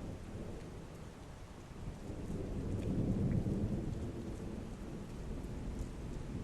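Thunderstorm: heavy rain falling steadily while a low roll of thunder swells about two seconds in, peaks a second later and fades away.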